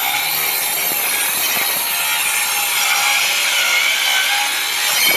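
Hitachi C18DGL 18-volt cordless 6-1/2-inch circular saw cutting through a wooden board with a well-worn blade, a steady loud cutting noise that ends abruptly as the cut finishes at the very end.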